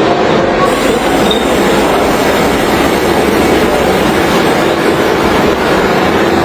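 A train running along rails: a steady, loud rolling rumble of wheels on track.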